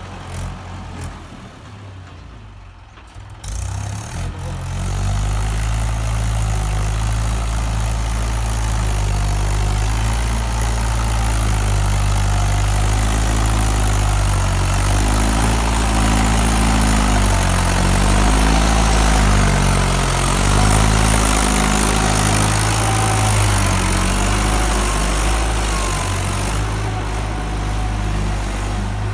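Mahindra tractor's diesel engine running under heavy load. It is quieter for the first few seconds, then runs loud from about four seconds in, its pitch rising and falling as it labours.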